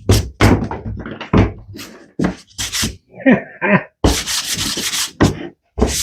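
Sandpaper rubbing on pine in short back-and-forth strokes, about two to three a second, then one continuous pass lasting about a second and a half past the middle.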